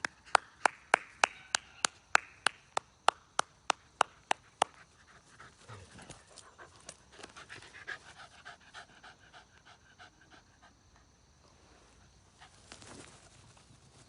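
A beagle panting hard in quick, even puffs, about three a second, loudest for the first five seconds. After that the panting goes on fainter and more ragged.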